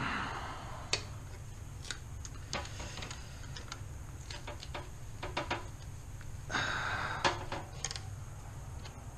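Hand tools and metal engine parts clicking and clinking: scattered sharp taps and short runs of quick clicks, with brief scraping rustles near the start and about six and a half seconds in.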